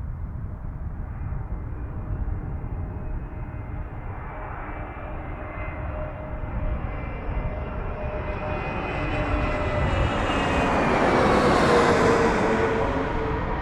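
Airliner passing low overhead on its landing approach. Its engine sound builds from about four seconds in and is loudest near the end, and its tones drop in pitch as it goes by.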